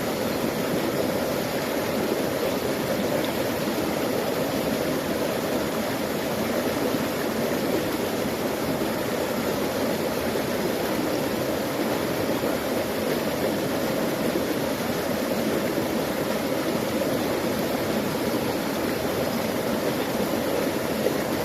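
Small creek's water flowing in a steady, unbroken rush, with a full, low-pitched sound.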